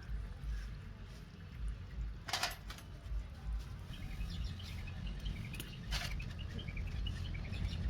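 Faint outdoor background: a low uneven rumble with small birds chirping, mostly in the second half, and two short clicks.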